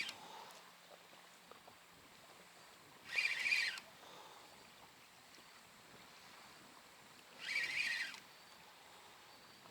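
Spinning reel cranked in short bursts during a stepped jig retrieve: three brief whirs of the reel, about four seconds apart, with quiet pauses between them while the lure sinks.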